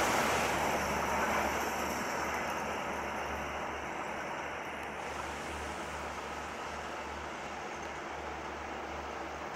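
Rumble of a departing passenger train's LHB coaches rolling away on the rails, fading steadily as the train draws off.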